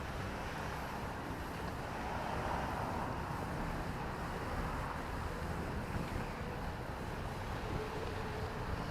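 Steady outdoor rushing noise with no distinct events, the kind made by city traffic or wind on the microphone.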